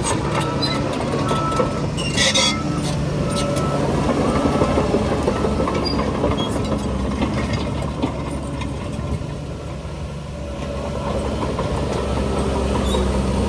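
Heavy earthmoving machinery's diesel engines running steadily, with a reversing alarm beeping during the first couple of seconds and a burst of metallic clanking and rattling around two seconds in. The engine swells again near the end.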